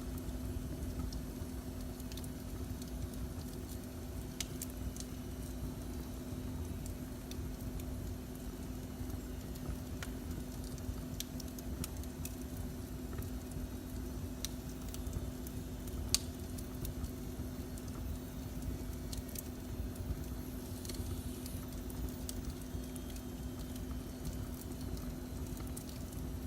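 Wood fire burning in a fireplace, with scattered sharp crackles and pops (the loudest about 16 seconds in) over a steady low rumble and hum.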